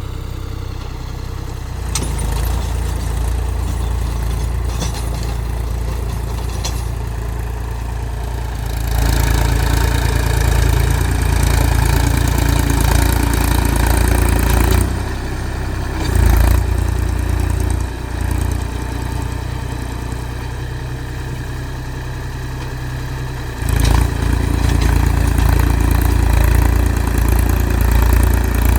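Mahindra 275 DI TU tractor's three-cylinder diesel engine running steadily. It grows louder and harsher about a third of the way in, dips and surges briefly in the middle, eases off, and comes up loud again near the end.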